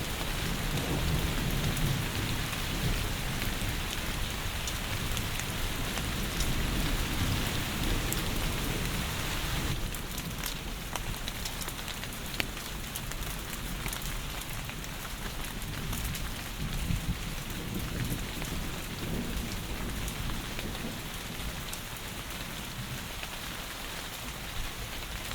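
Heavy rain falling steadily, with low rumbles of thunder swelling near the start, partway through and again at the end. The hiss of the rain eases slightly about ten seconds in.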